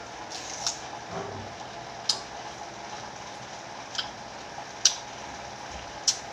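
Crisp, wet crunches of raw kamias (bilimbi) fruit being bitten and chewed: five short, sharp crunches at uneven intervals about a second apart, over a steady low hiss.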